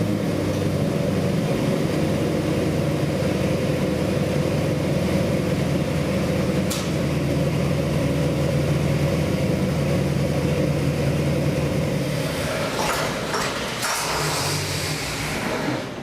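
Ford 408 Windsor stroker small-block V8 crate engine running hard under load on an engine dyno, a loud, fairly steady note for about twelve seconds. The engine then drops back, with a few clicks and a hiss near the end.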